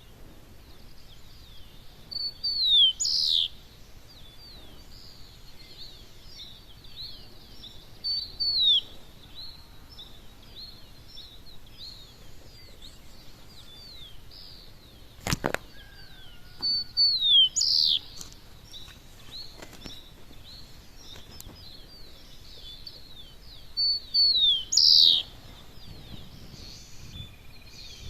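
Birds singing at dawn: a steady chorus of many quick high chirps, over which one louder bird repeats a short phrase of rapid sweeping notes about every seven seconds, four times. A single sharp click about halfway through.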